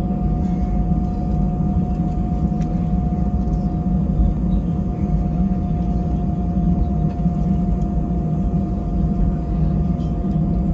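Airbus A320-200 jet engines heard from inside the passenger cabin: a steady loud rumble with a steady whine that sinks slightly in pitch.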